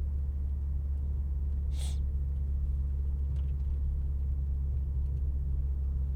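Steady low rumble of a car's engine and road noise heard from inside the cabin while driving, with one brief hiss about two seconds in.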